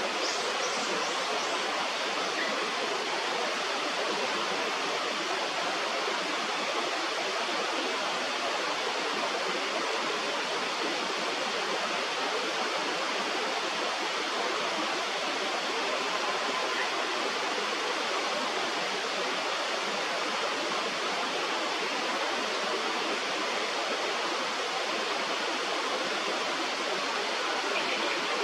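Steady, unbroken rushing of a river's flowing water.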